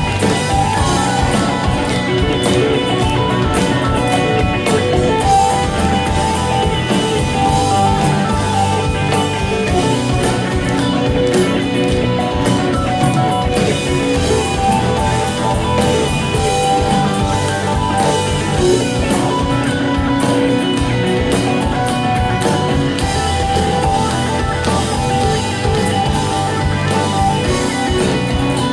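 Live rock band playing an instrumental passage: electric guitars over a drum kit, with no singing.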